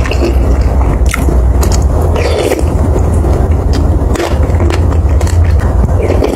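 Close-miked eating of bakso aci, chewy tapioca meatballs in spicy broth: wet chewing with scattered sharp mouth clicks and smacks. A steady low hum runs underneath.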